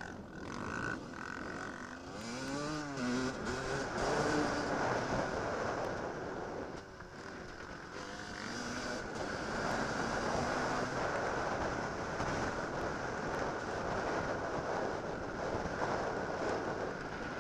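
Enduro dirt bike's engine running under way, its pitch rising and falling as the revs change, with a steady rushing noise over it.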